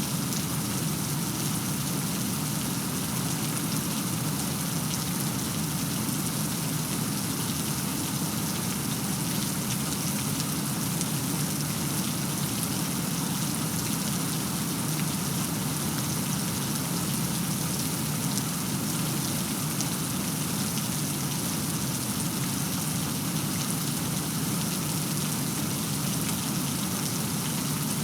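Steady heavy rain falling, an even hiss with fine drop patter and no thunder.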